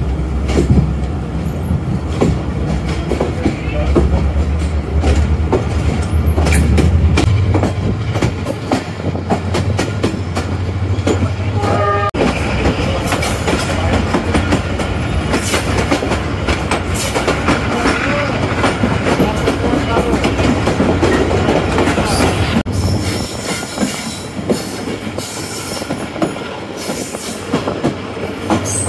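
Passenger express train running on the line, heard from aboard: wheels clattering over the rails with a steady rumble. The low rumble is strongest for the first twelve seconds, then eases as a higher rushing noise takes over.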